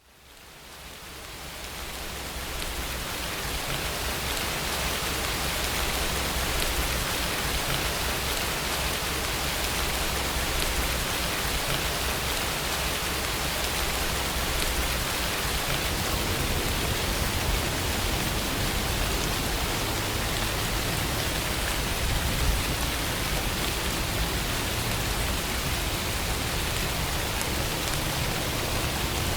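Steady rainfall, an even hiss of many drops with a low rumble beneath. It fades in from near silence over the first few seconds.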